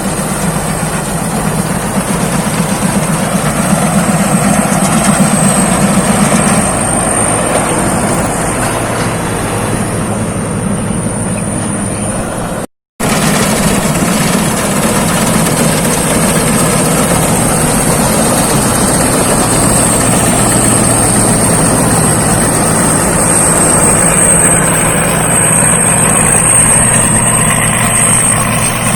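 Rice combine harvester's engine and threshing machinery running steadily under load, with a steady high whine over the hum. The sound drops out suddenly for a moment about halfway through.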